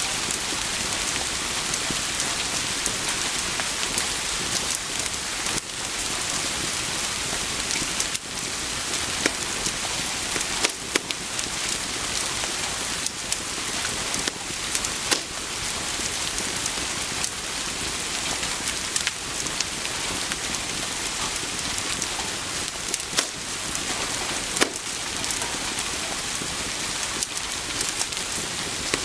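Steady rain hissing, with sharp drip and spatter ticks scattered irregularly throughout.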